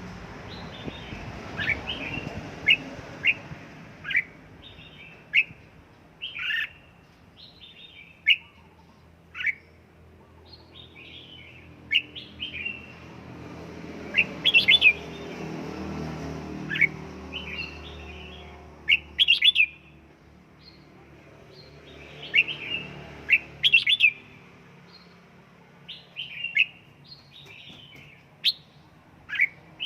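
Red-whiskered bulbul singing: short, bright chirping phrases repeated every second or two, some bunched into quick clusters, over a low steady background hum.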